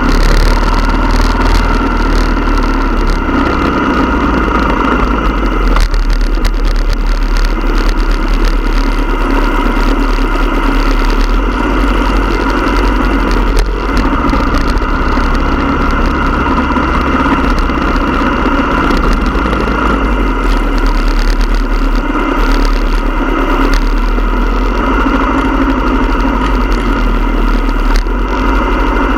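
Motorcycle engines running steadily, a loud continuous rumble.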